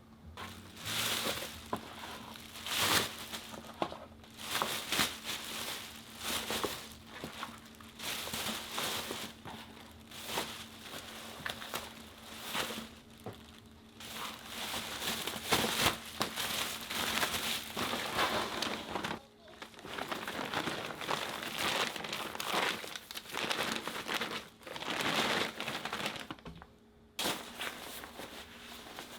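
Repeated crinkling and rustling of something being handled, in short bursts with brief pauses, over a faint steady hum.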